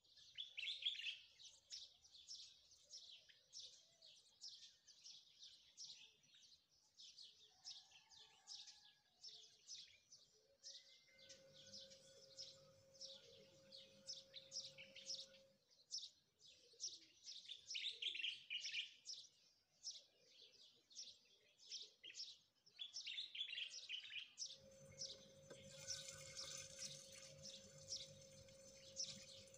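A small songbird twitters faintly in quick, continuous high chirps. A steady electric hum comes in for a few seconds about eleven seconds in and again near the end.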